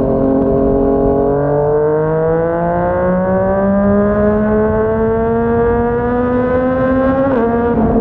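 Yamaha MT-09's three-cylinder engine through a Yoshimura R55 slip-on exhaust, pulling in gear. The engine note holds steady, then climbs slowly for about six seconds as the bike accelerates, and dips briefly near the end as it shifts up.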